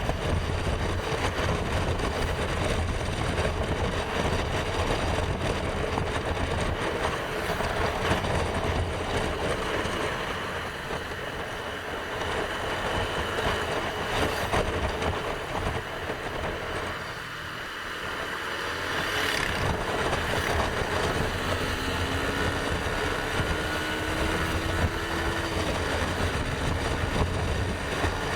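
Motorcycle running on the road with steady wind and road noise on the microphone, easing off briefly about two-thirds of the way through before picking up again.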